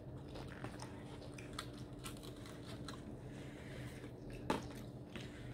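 Quiet chewing and mouth sounds of people eating pasta salad, with small clicks and scrapes of forks on plates over a faint steady hum; one sharper click about four and a half seconds in.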